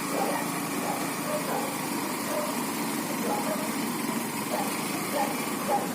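A motor vehicle engine running steadily, with indistinct voices over it.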